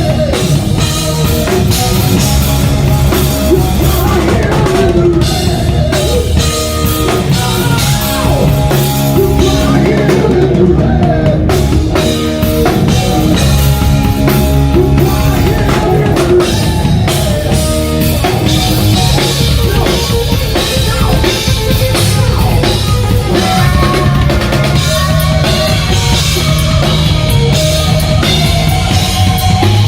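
Rock band playing live at full volume through an instrumental passage with no singing, the drum kit and bass driving a steady beat under wavering melodic lines.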